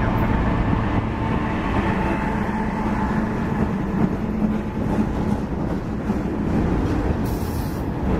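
CSX freight train passing close by: its diesel locomotives' engines run past first, then loaded lumber flatcars roll by on the rails. The engine hum fades about six seconds in, leaving the rolling wheel noise.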